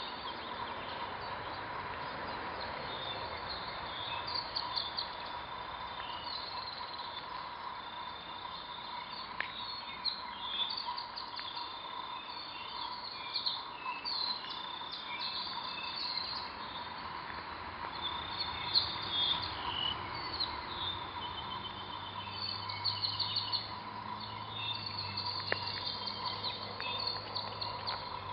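Forest birds chirping and whistling in short, scattered calls over a steady outdoor hiss with a faint steady tone; a low hum joins in about two-thirds of the way through.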